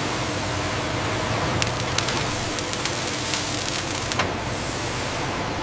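Factory-floor machinery noise: a steady, even hiss with a faint hum beneath it and a few sharp clicks, two of them close together about a second and a half to two seconds in and another about four seconds in.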